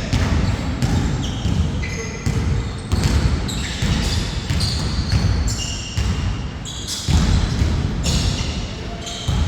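Basketball bouncing on a court during play, irregular thuds about once or twice a second, mixed with short high squeaks of players' shoes.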